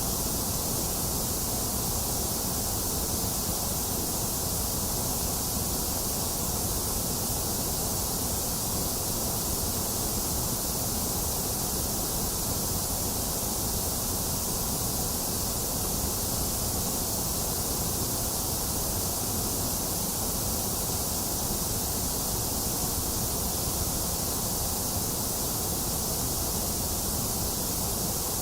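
Steady white noise: an even, unchanging hiss with no events in it.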